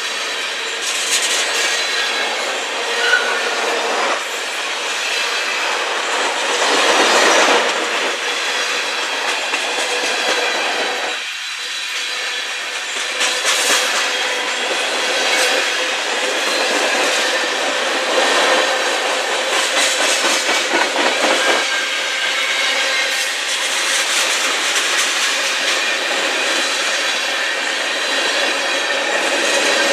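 Freight train tank cars rolling past close by: steady steel wheel-on-rail noise with repeated clickety-clack as the wheels cross rail joints, and a thin steady wheel squeal running under it.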